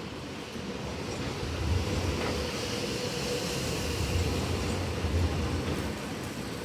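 Electric suburban train running: a steady rumble with a faint motor whine through the middle.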